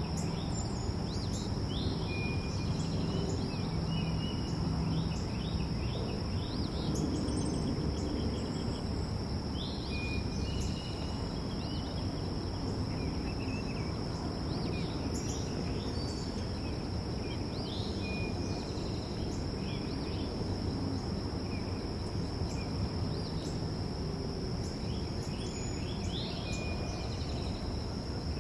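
Backyard birds calling in short, scattered chirps over a steady, high insect drone, with a low background rumble underneath.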